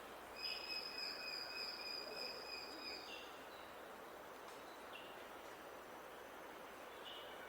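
Outdoor birdsong ambience. About half a second in, a long steady high whistle holds one pitch for nearly three seconds. Short chirps follow three times, over a faint hiss of background noise.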